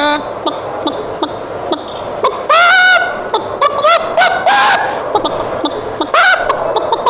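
A man imitating a hen's cackle in short, high, bending calls, mixed with children laughing.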